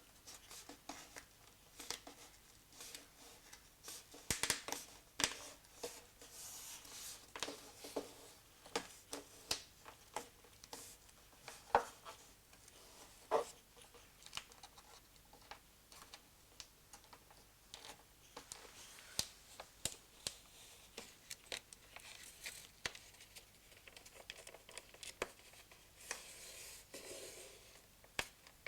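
Fingers pressing a flexible WPC inlay strip into a stair nosing's channel and contact tape: faint, irregular clicks, scrapes and rustles of plastic being worked in.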